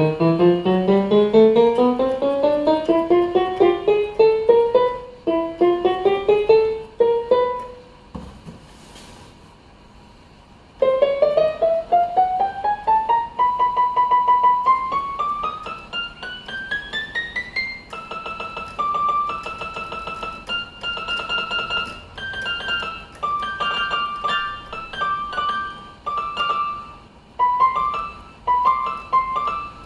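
Casio CTK-481 electronic keyboard playing in a piano voice: notes run up the keys one after another in rising runs, with a short pause about a third of the way in, then a short tune of separate notes. This is a play test of the keys after the dead E key's contaminated contact pad was cleaned.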